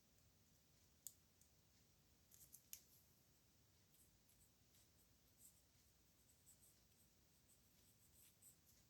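Faint scratches and ticks of a nib pen on paper, in near silence: one sharp tick about a second in, a quick cluster of strokes around two and a half seconds, and lighter scratches later.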